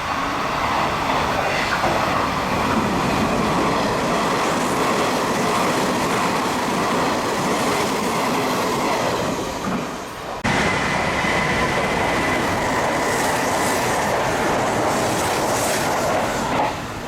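Hanshin Main Line electric train passing through the station at speed without stopping, its wheels rumbling and clacking over the rails. About ten seconds in, the sound cuts abruptly to another passing train, now with a steady high whine over the rumble.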